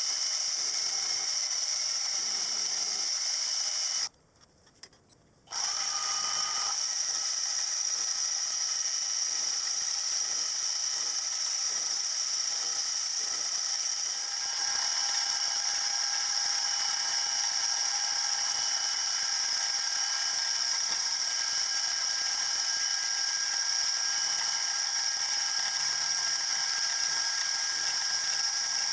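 A metalworking machine tool running: a steady high-pitched whine of motor and gears with several tones at once. It drops out for about a second and a half near four seconds in, and about halfway through the tone changes and grows a little louder.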